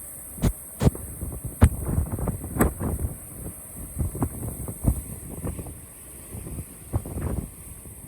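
Strong typhoon wind buffeting the camera microphone: a low rumble broken by irregular, sudden thumps from the gusts.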